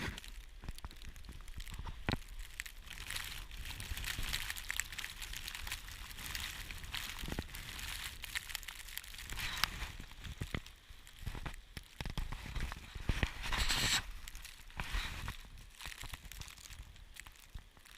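Blizzard wind buffeting the microphone, with a crackling, crunching hiss that swells and eases in gusts and is loudest about three-quarters of the way through.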